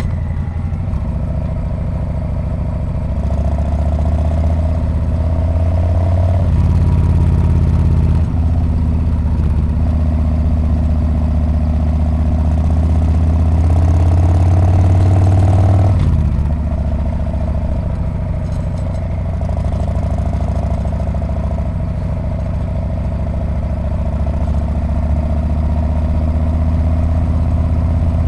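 Harley-Davidson Street Bob V-twin engine and exhaust under way, the engine pulling harder with its pitch climbing until about halfway through. Then the throttle shuts off suddenly and the engine runs on lower before building again.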